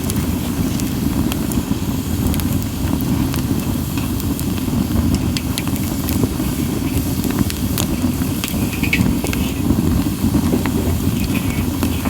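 Split sawtooth oak (kunugi) firewood burning in an open fire, with a low steady rumble and frequent sharp crackles and pops. Short hisses come about two-thirds of the way in and again near the end.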